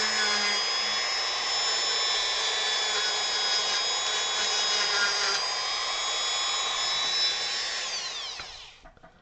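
Dremel rotary tool running at a steady high speed with a constant whine, carving wood. About eight seconds in it is switched off, and the whine falls in pitch as the motor spins down.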